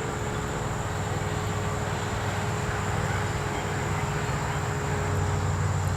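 A low engine-like rumble, such as a passing vehicle, growing louder toward the end, over a steady high-pitched insect chorus.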